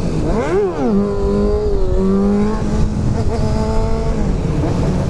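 Motorcycle engine revving up sharply and dropping back about half a second in, then holding a steady pitch while riding and easing off near the end, over constant low wind rush.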